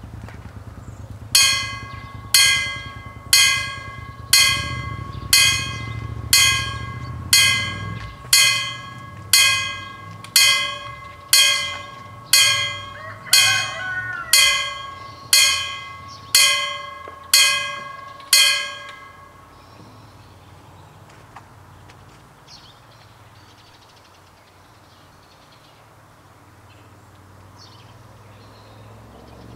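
Level-crossing warning bell striking about once a second, each stroke ringing out, about eighteen strokes before it stops some 19 seconds in. A low rumble underlies the first eight seconds, and it is quiet after the bell stops.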